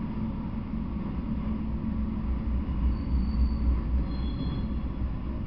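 Freight train of autorack cars rolling past: a steady low rumble of steel wheels on rail, with faint high squeals about three and four seconds in.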